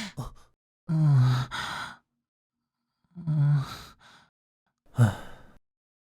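A drunk man's wordless sighs and moans, four short breathy ones.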